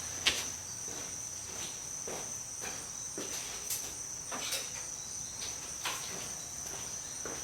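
Scattered light clicks and taps of a hand tool working on a wheel hub's threaded retainer, over a steady high-pitched whine.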